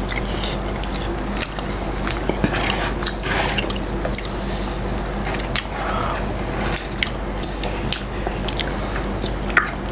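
Close-miked mouth sounds of people biting and chewing crispy breaded fried chicken: many small crackles and wet clicks, over a steady low hum.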